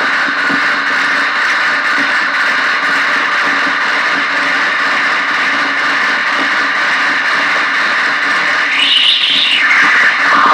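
Arturia MicroBrute and Casper Electronics Nova Drone synthesizers, cross-patched and played through a small bass practice amp, making a dense, steady noise drone with a low hum underneath. About nine seconds in, a higher sweep rises and falls back.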